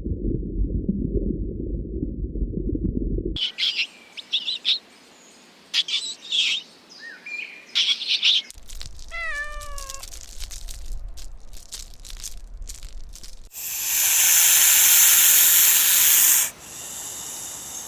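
Domestic cat sounds: a low, steady purr at first, then a series of short meows, one of them a long falling meow, and then a loud hiss lasting about three seconds.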